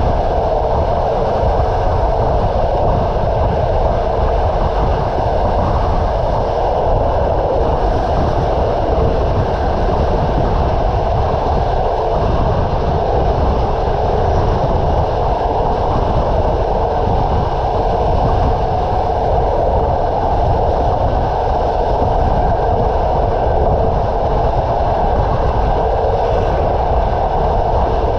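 A passenger train running at speed: a steady rumble of wheels on the rails, with no distinct clacks or changes.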